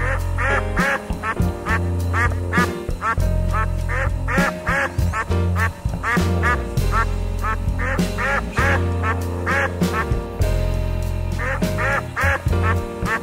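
Ducks quacking in quick, repeated calls, about two or three a second, with a short pause about ten seconds in, over background music with a steady bass.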